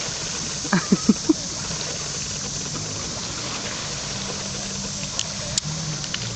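Sea-Doo personal watercraft engine running with a steady low drone, under a haze of water and wind noise. Four short, sharp knocks come about a second in.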